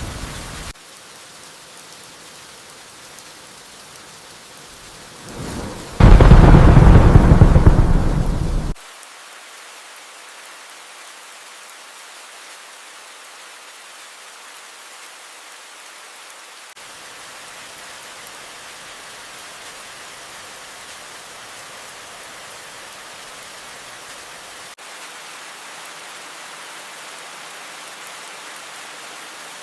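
Steady rain falling, with the end of a thunder rumble just after the start and a loud clap of thunder about six seconds in. The clap lasts nearly three seconds and cuts off suddenly, leaving only the even rain hiss.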